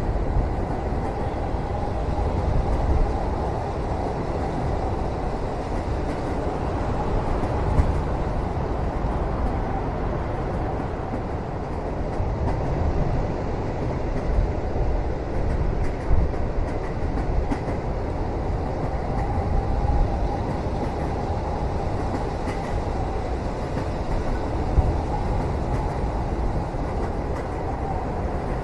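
Passenger train running, heard from inside the carriage: a steady low rumble of the wheels on the rails, with occasional louder clacks.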